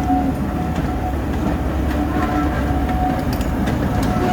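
Coaches of a steam-hauled passenger train rolling past on the rails, a steady low rumble with a faint thin tone above it.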